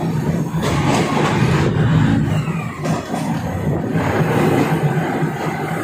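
Diesel commuter train running along the track, heard from inside the carriage: a steady low engine drone mixed with rail and wheel noise.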